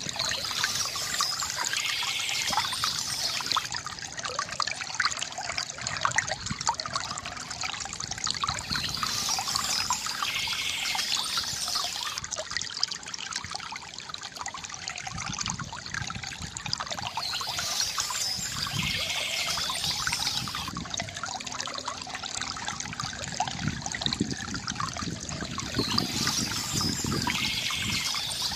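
Stream water trickling steadily, with a brighter, hissier passage coming back about every eight seconds.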